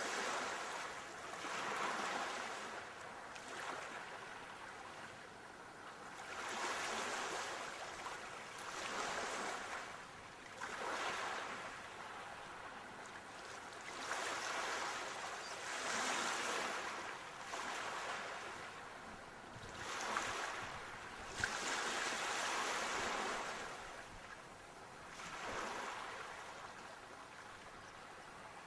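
Sea waves breaking and washing up a shore, one surge after another every two to three seconds. Two short sharp clicks come about two-thirds of the way through.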